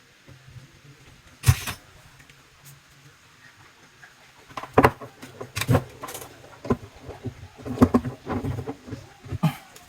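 One loud sharp knock about a second and a half in, then a run of irregular knocks and clicks from hands handling tools and plumbing parts, over a faint low hum.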